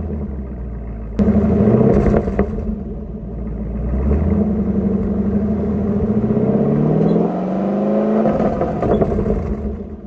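Car engine and exhaust heard from beneath the car, running at idle. It jumps louder about a second in, then revs with a rising pitch and drops back near the end, as the switchable exhaust modes are cycled to track down a chirp on throttle.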